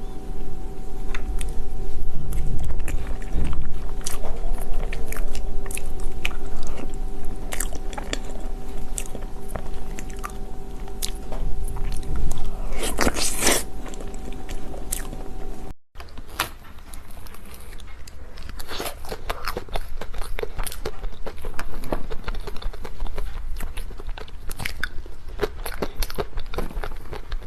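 A person eating dessert close to the microphone: wet chewing and biting with many small clicks and crunches. A steady hum runs under the first half, then the sound cuts out briefly and the chewing goes on without it.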